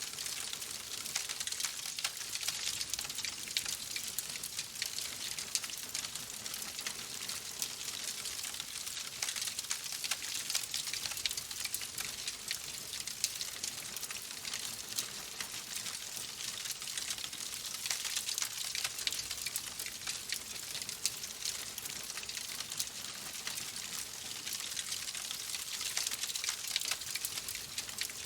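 Fireplace fire crackling: a dense, steady stream of small pops and snaps over a high hiss.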